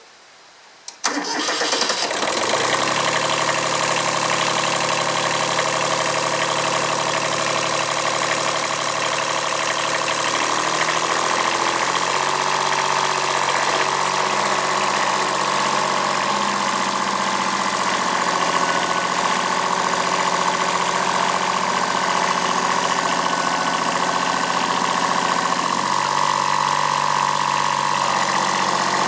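Kubota B7001 tractor's D850 three-cylinder diesel engine starting suddenly about a second in, then running steadily, with small changes in engine speed around ten seconds in and again near the end.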